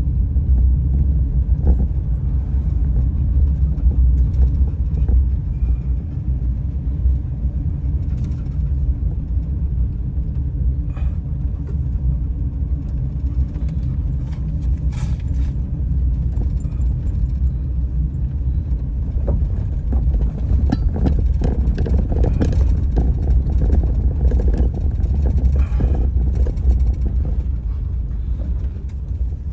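Steady low road and engine rumble heard from inside a moving van's cabin, with a few faint clicks and rattles scattered through it.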